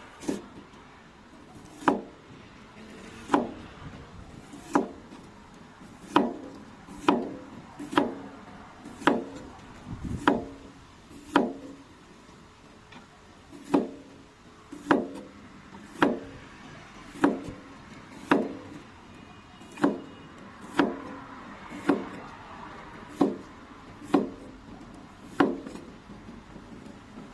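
Knife chopping food on a cutting board, one firm, sharp knock about every second, about twenty strikes, with a brief pause partway through.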